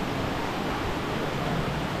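Steady rushing of river and waterfall water, an even hiss-like roar with no breaks.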